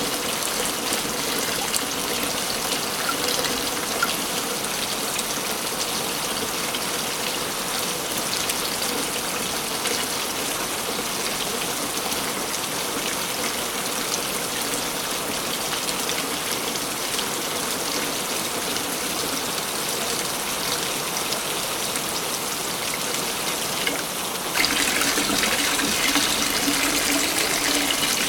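Waterfall rushing steadily, water pouring and splashing without a break. About 24 seconds in it abruptly becomes louder and brighter, as at a splice in the recording.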